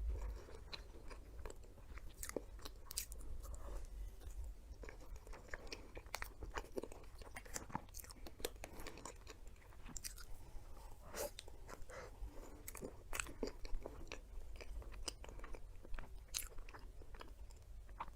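Close-miked eating: a person chewing and biting into a dessert, with many irregular sharp crunches and crackles.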